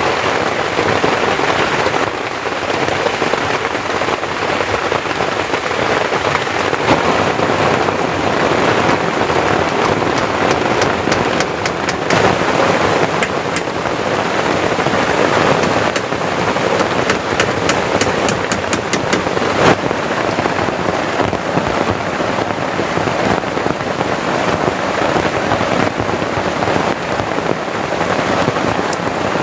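Heavy rain falling steadily. Through the middle, clusters of sharp ticks of drops striking something close stand out from the rain.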